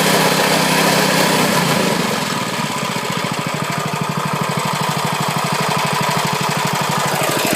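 Lifan 6.5 hp single-cylinder four-stroke mini bike engine running. About two seconds in it slows from a steady higher speed to a lower, even idle, where its individual firing beats can be heard.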